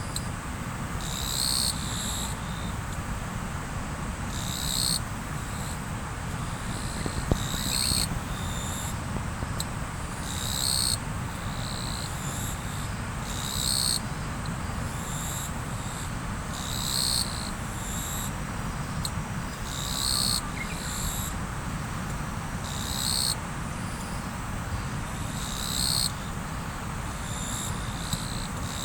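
Riverside water flowing steadily, with a high, short chirp repeating about every second and a half.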